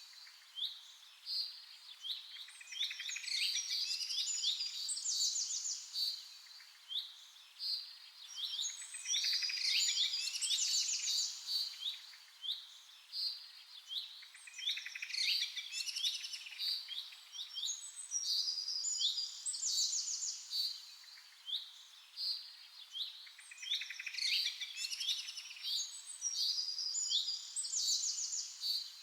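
Several songbirds chirping and singing together: quick high-pitched notes and trills that swell into busy bursts of song about every five to six seconds and thin out in between.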